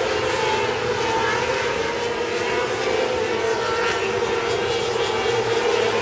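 Winged dirt-track race car's engine running at a steady, even pitch, without revving up or down.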